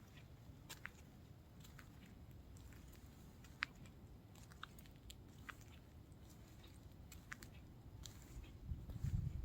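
Faint footsteps crunching on a dune path, about one step a second, over a low steady rumble that swells briefly near the end.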